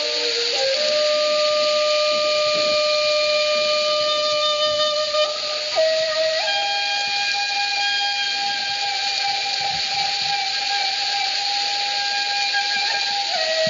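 Slow solo flute music with a breathy tone: a few quick notes, then long held notes that step up about halfway and back down near the end, over a steady hiss.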